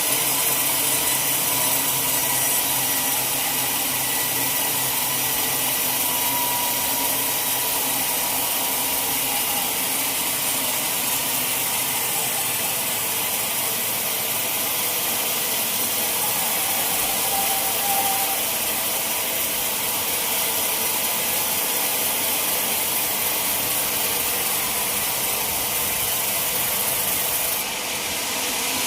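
Sawmill saw running steadily through a log, a constant hissing noise with no break, dipping slightly near the end.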